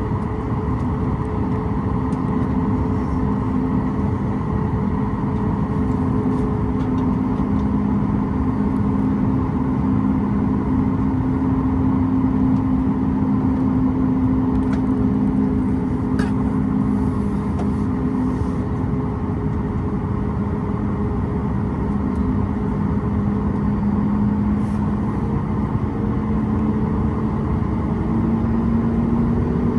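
Cabin noise inside a Boeing 737 MAX 8, with the steady hum of its CFM LEAP-1B turbofan engines: a constant rush with a few held tones. Near the end the engine tones start to rise as the engines spool up.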